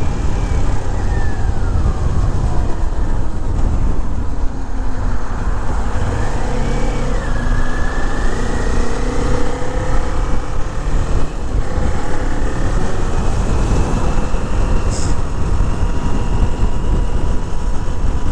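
2021 Kawasaki Z400's parallel-twin engine running while riding, its note falling early on and rising again a few seconds later with throttle and gear changes. Heavy wind rumble on the microphone runs under it.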